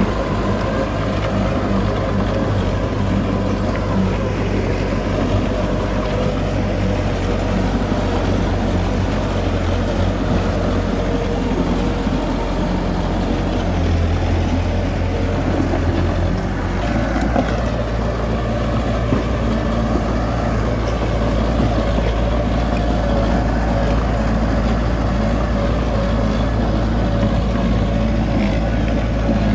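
Heavy diesel earthmoving machinery running steadily, with its low engine note changing pitch about two-thirds of the way through as the load or throttle changes.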